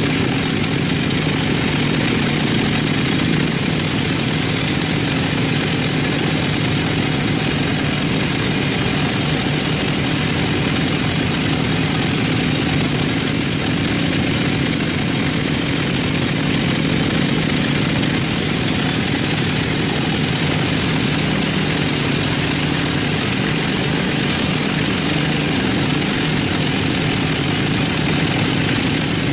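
Sawmill machinery running steadily, a constant motor hum and drone with no pauses or changes in load.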